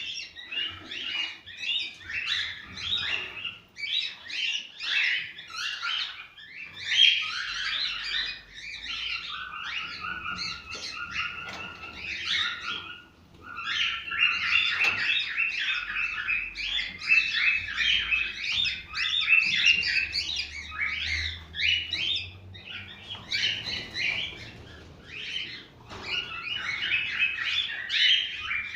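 Cockatiels chirping and warbling in a dense, continuous run of rapid chirps and whistled notes, with a short lull about thirteen seconds in.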